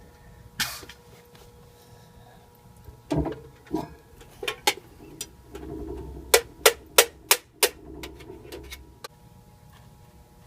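Handling noise from work on the equipment: a knock about three seconds in, scattered clicks, then a quick run of five sharp clicks, a little under three a second.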